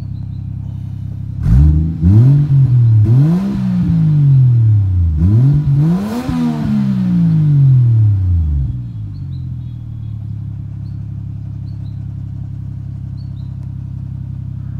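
Toyota 1JZ-GTE turbocharged 2.5-litre straight-six idling steadily, blipped up three times in quick succession about a second and a half in, each rev rising and falling back, then returning to a steady idle.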